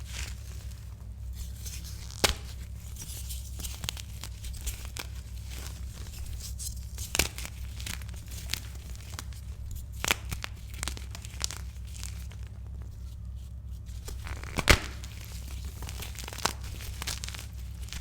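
Pressed gym chalk being crushed by hand: scattered sharp crunches and cracks with soft crumbling between, the loudest crack about fifteen seconds in, over a low steady hum.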